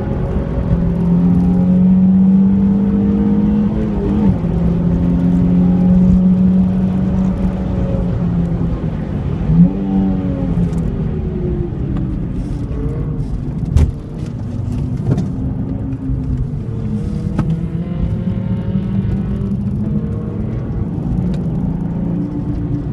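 Nissan 350Z's 3.5-litre V6 engine and exhaust on track, its pitch repeatedly climbing under acceleration and dropping through shifts and braking. Two sharp knocks stand out, about ten and fourteen seconds in.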